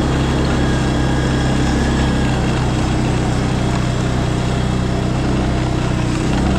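Small engine running steadily at an even pitch, with no change in speed.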